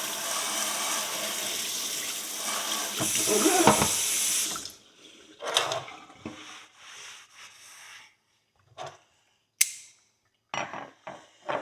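Kitchen sink tap running steadily as the horseshoe is wetted under it. It is shut off about four and a half seconds in, followed by a few light handling knocks and a sharp click.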